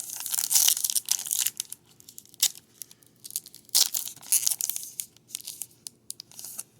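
Plastic card sleeves and wrappers crinkling and rustling as trading cards are handled, in irregular bursts with small clicks, loudest about a second in and again about four seconds in.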